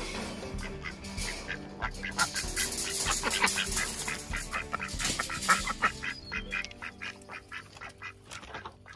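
A group of domestic ducks quacking in quick, overlapping calls, busiest in the middle and thinning out near the end, over faint background music.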